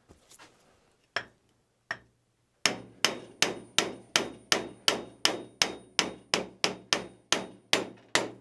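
Hammer blows driving a replacement metal wheel down its axle onto the shoulder, the wheel set with Loctite. Two separate taps come first, then a steady run of strikes about three a second, each ringing briefly.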